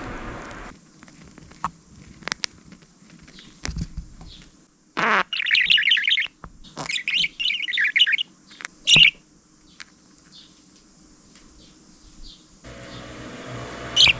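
Budgerigar chirping and warbling in short bursts, most of it about five to nine seconds in, with a few buzzy notes: a contented budgie's chatter. A few sharp clicks come in the first four seconds.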